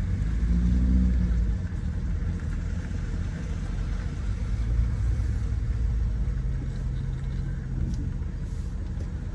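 Car engine running at low speed as a car is manoeuvred into a parking space, a steady low rumble that swells briefly about a second in.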